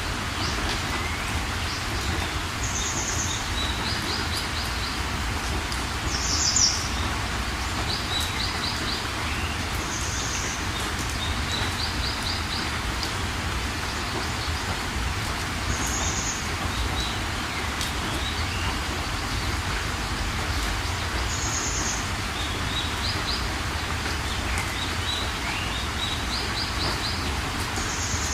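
Steady rain hiss with songbirds calling over it. One bird repeats a short, high note every few seconds, the loudest about six seconds in. Another gives short, rapid trills.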